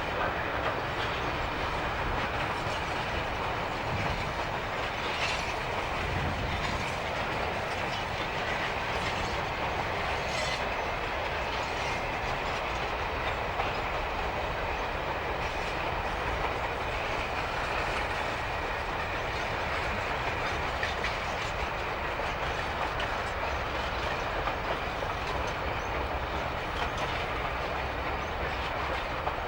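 Freight train rolling past, its wagon wheels clicking over rail joints in a steady rumble, with a faint high steady whine from the wheels.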